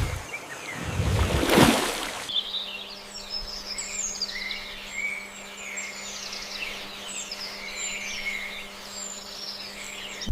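A rushing noise swells and cuts off about two seconds in. After it, songbirds chirp in a busy run of short, high, falling notes over a low steady hum.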